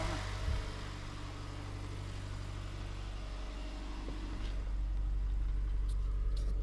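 Subaru Forester's flat-four engine idling steadily with a low hum while the car is checked for an oil leak. There is a small knock about half a second in and a few faint clicks near the end.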